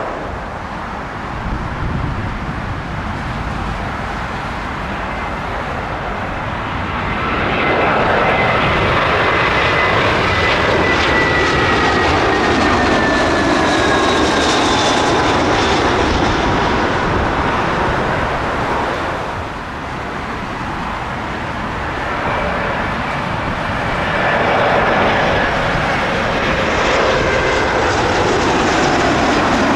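Jet airliner passing low overhead on approach to land: the engine noise swells to a loud rush about a quarter of the way in, with an engine whine that falls in pitch as it goes by. A second swell of engine noise with whining tones builds in the last third.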